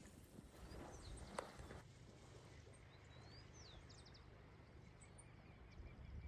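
Near silence: faint outdoor ambience with a few short, high bird chirps about three seconds in.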